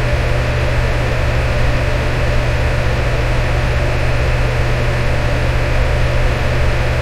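Electric fan running steadily, a constant rushing hiss over a strong low hum.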